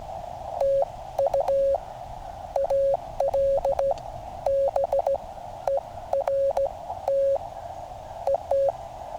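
Morse code (CW) audio from a QCX mini QRP transceiver: a single pitched tone of about 600 Hz keyed on and off in dots and dashes, with a narrow band of receiver hiss filling the gaps between characters.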